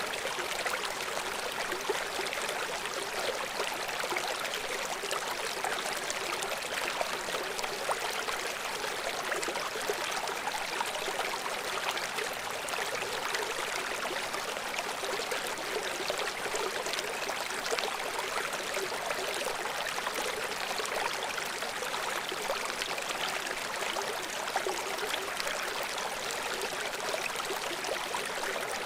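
Stream water running steadily over rocks, an even rushing with small splashes and trickles through it.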